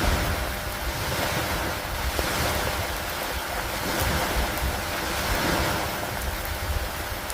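Steady rain on a wooden dock, with a low rumble underneath; the noise swells and eases every couple of seconds.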